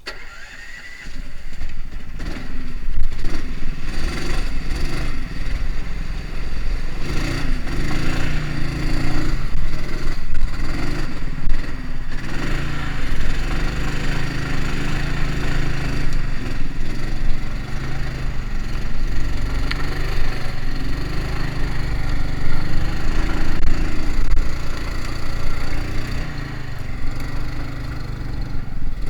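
Homemade karakat all-terrain vehicle driving with its engine running steadily, with frequent clattering knocks over the engine note. The engine note picks up about a second in.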